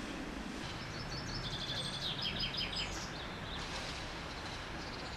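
A small songbird singing a quick run of chirping notes that steps down in pitch, over a steady low background rumble.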